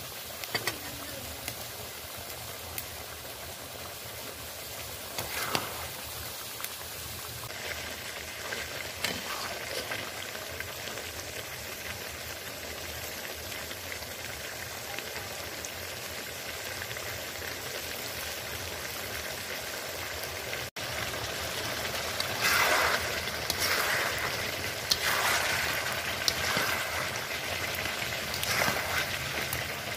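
Chicken pieces sizzling steadily in hot oil in a kadai as they are fried down with spices. Over the last third come louder repeated strokes of the pieces being stirred in the pan.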